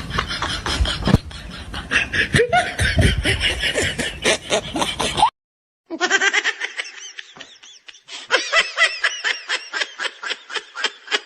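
Rapid, rhythmic laughter, with many short 'ha' pulses a second. It cuts out for a moment about halfway and resumes in a thinner-sounding stretch of the same kind of laughing.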